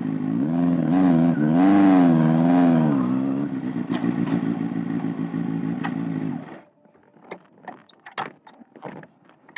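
Kawasaki ZX-6R 636 inline-four engine idling, revved up and down a few times in the first three seconds, then idling again until it cuts off suddenly about six and a half seconds in: the engine is switched off. A few sharp clicks and knocks follow.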